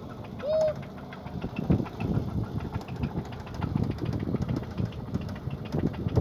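Toyota 1ZZ 1.8-litre four-cylinder engine idling, with a rapid light ticking over its uneven running.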